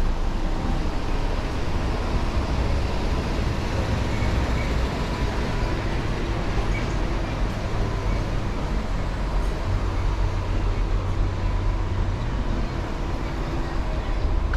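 Street traffic: a motor vehicle's engine running with a steady low rumble that shifts in strength every few seconds.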